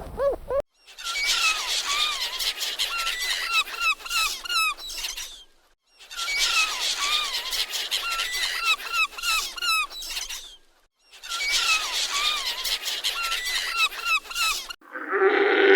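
Rapid, high squeaky chirps over a dense clicking, crackling texture, in three near-identical stretches of about four to five seconds with brief silent gaps between them. Near the end a different, lower animal call begins.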